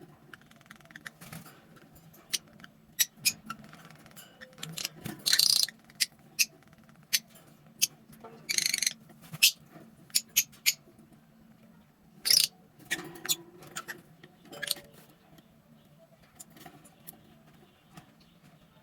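Lovebirds chirping: short, sharp, high-pitched calls at irregular intervals, with a few longer shrill calls about five, eight and a half and twelve seconds in.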